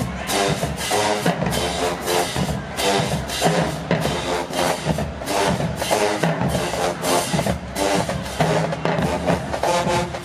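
HBCU show-style marching band playing: brass chords over a steady, driving beat of drum strokes.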